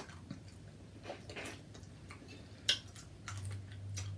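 Close-miked mukbang eating sounds: chewing with a few short, sharp clicks and smacks, the loudest about two and a half seconds in, over a low steady hum.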